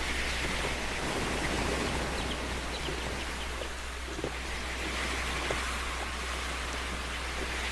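River water rushing and splashing around a kayak: a steady hiss with small scattered drips and splashes.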